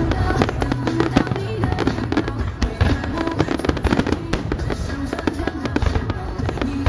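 Fireworks going off in many quick, irregular bangs and crackles over loud music.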